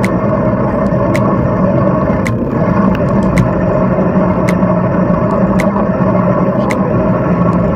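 Steady rush of wind over the microphone and tyre noise of a moving bicycle, with a faint tick about once a second.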